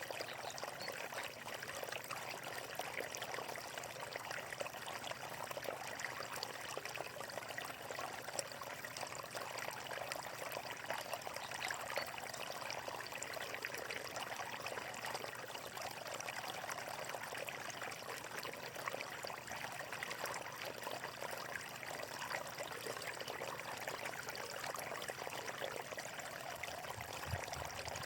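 Water flowing and splashing in a small stream, a steady bubbling rush with many small splashes.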